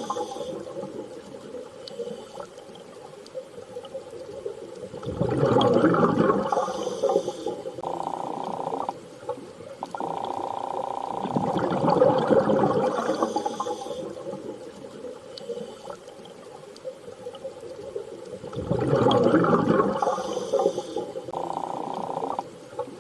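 Muffled underwater-style water ambience: swells of low, dull water noise rise and fall about every six to seven seconds, over a steady hum-like tone that comes and goes.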